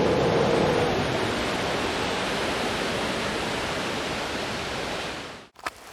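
Strong tropical-storm wind rushing through the treetops as a steady, loud rush of noise. It cuts off suddenly near the end.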